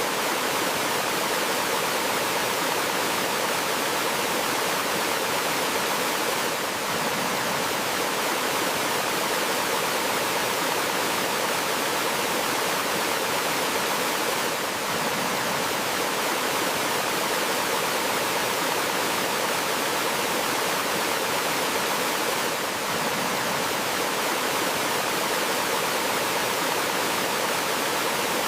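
Gentle waterfall's flowing water, a steady even rush with no let-up, heaviest in the middle and upper pitches.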